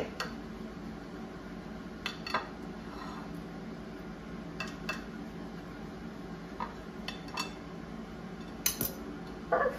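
A cheese quesadilla being cut into pieces on a plate: the blade knocks and scrapes against the plate in scattered short clicks, several of them in quick pairs.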